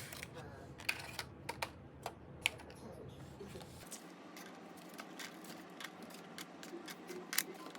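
Scattered light clicks and taps of small hard objects being handled and set down, irregular and spaced out, with a faint low hum that stops about four seconds in.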